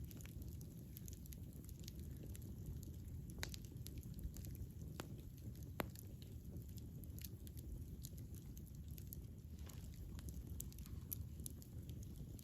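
Campfire burning: burning wood crackling with irregular sharp pops over a steady low rush of the flames. A few louder snaps stand out, the sharpest about six seconds in.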